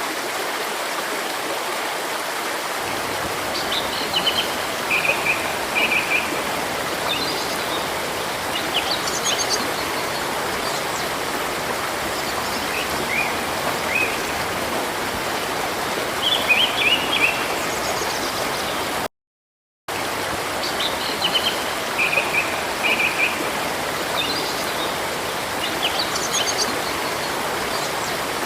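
A river running with a steady rush of water, while small birds chirp and twitter in short high phrases over it. The whole sound cuts out for under a second about two-thirds of the way through.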